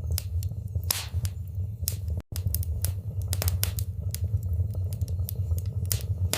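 Wood fire in a fireplace crackling, with irregular sharp pops and snaps over a steady low rumble. The sound cuts out for an instant about two seconds in.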